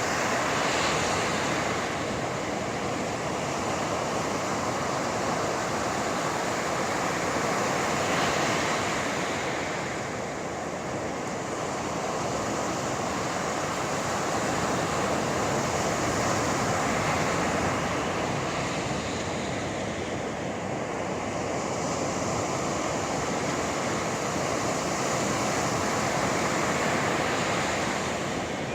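Sea surf: waves breaking and washing up the shore, swelling in loudness about every eight or nine seconds.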